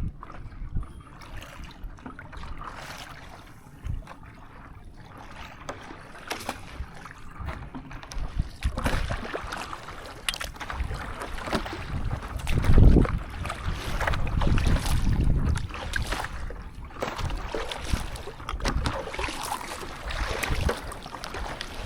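Sea water splashing and sloshing around stand-up paddleboards as they are paddled, in irregular surges, with wind buffeting the microphone; the strongest, deepest buffet comes a little past halfway.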